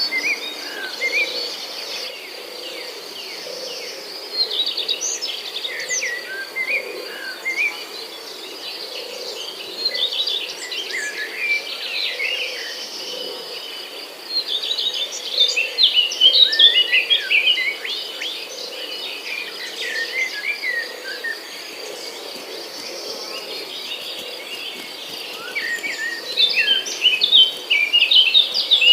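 Rainforest ambience: a steady, high insect trill under many overlapping bird calls and chirps, which come in several busier flurries.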